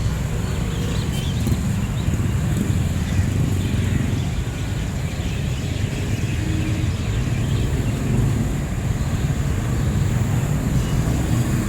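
Street traffic: a steady low rumble of vehicles running past, with no single event standing out.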